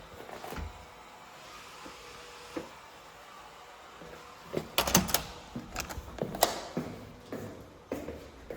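Quiet room tone, then from about halfway a quick run of clicks, knocks and light rattles, like things being handled and set down.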